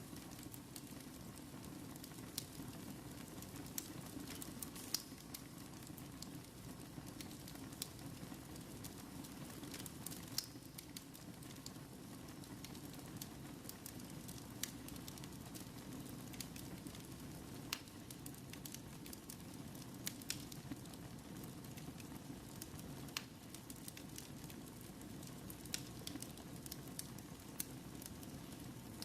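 Wood fire burning in a fireplace: a steady low rush of the flames with sharp pops and crackles at irregular intervals, about one every second or two.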